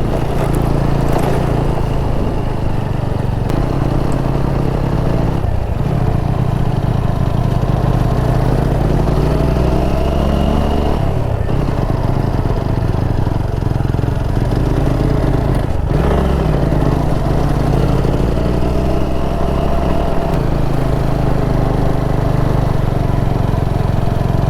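Motorcycle engine running steadily on a ride along a rough road, with a few brief knocks.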